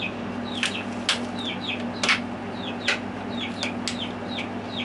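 A small bird chirping over and over in short falling chirps, two or three a second, with scattered sharp clicks of eating and a plastic fork, over a steady low hum.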